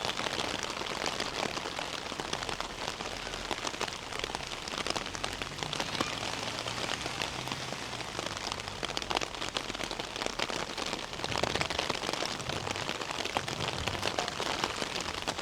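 Steady rain falling, a dense hiss of many small drop impacts.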